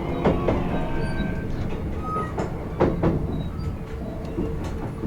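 Kintetsu 16600-series electric train heard from inside the car end, running with a steady rumble as its wheels clack over rail joints: a pair of clacks under a second in and a cluster of them about two and a half to three seconds in.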